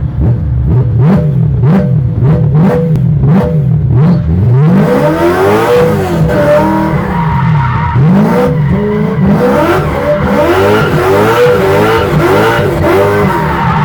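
A V8-engined BMW 1 Series revving up and down over and over, heard from inside the car. From about four and a half seconds in, tyres squeal as the car drifts.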